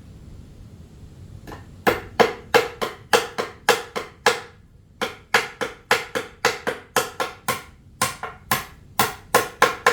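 A hammer driving nails: a long run of sharp, ringing blows, about three a second, starting about two seconds in with a short pause midway.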